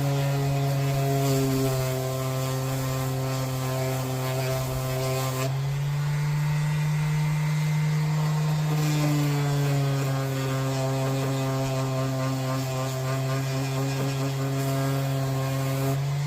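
A motor running steadily with a strong, even hum, its pitch shifting slightly a few times.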